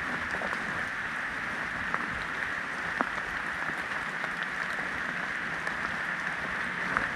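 Steady rain falling, with a few sharp taps of single drops close by.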